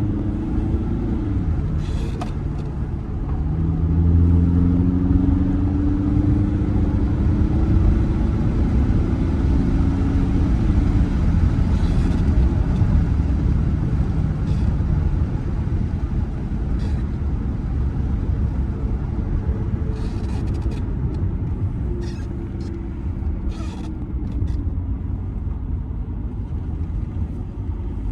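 Audi A6 C6 2.0 TDI four-cylinder turbodiesel and road rumble heard from inside the cabin while driving. The engine note rises steadily for several seconds as the car gathers speed, then sinks back into the rumble. A few short clicks come through in the second half.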